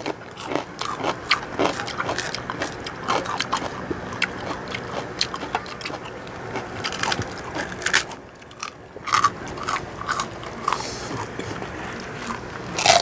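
Two people chewing and crunching crispy pork chicharon (deep-fried pork rinds) close to the microphone, a steady run of sharp crackling crunches, with one louder crunch near the end.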